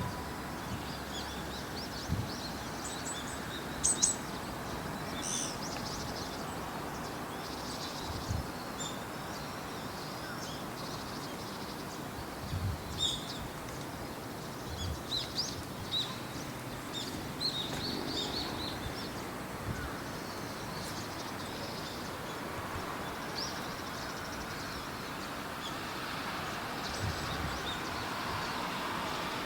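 Small birds chirping here and there, short high calls scattered through, over a steady outdoor hiss, with a few soft low thumps.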